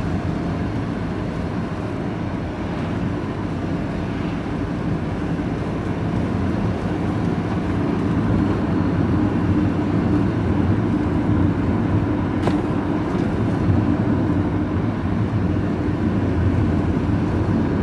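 Vehicle engine and road noise heard from inside the cab while driving at a steady speed, a continuous low hum that gets slightly louder about halfway through.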